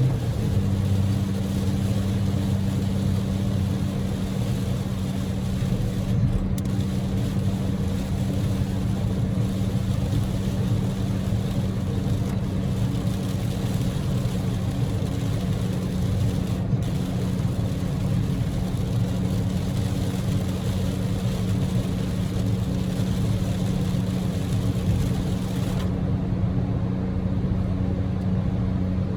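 Inside the cabin of a Daihatsu Move's 660 cc three-cylinder engine car at a steady highway cruise: a steady engine hum under the loud hiss of heavy typhoon rain and wet tyre noise. The brightest part of the hiss thins out near the end.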